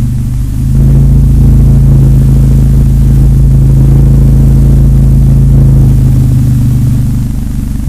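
2010 Acura TSX exhaust through Megan Racing aftermarket mufflers while driving: a loud, deep drone steady in pitch. It swells just under a second in and eases off near the end.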